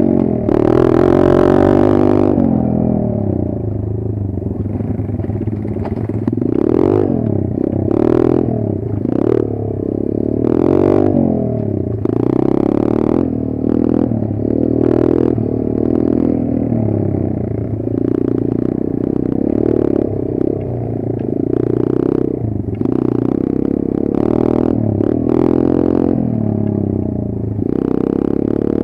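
Kayo 140 pit bike's single-cylinder engine running under load, the revs rising and falling again and again as it is ridden, with repeated sharp clattering knocks.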